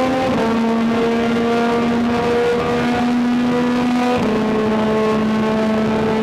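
Yamaha MT-09's inline three-cylinder engine running through an Akrapovic exhaust while riding, holding a steady pitch with slight dips twice.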